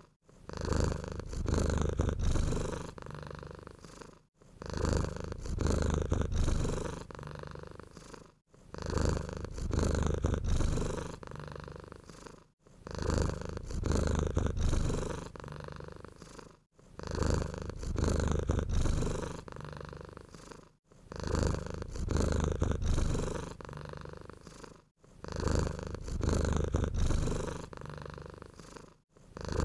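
Domestic cat purring, a low steady rumble that swells and eases with each breath. The same stretch of purring repeats about every four seconds, with a short drop-out at each repeat.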